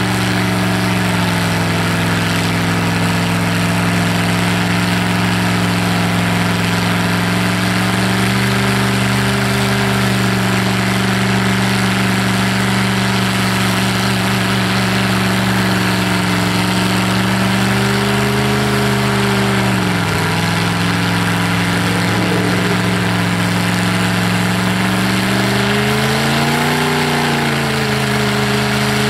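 Off-road mud truck's engine running at a steady idle, with a slight rise in revs about two-thirds of the way through, a brief dip, and a short rev up and back down near the end.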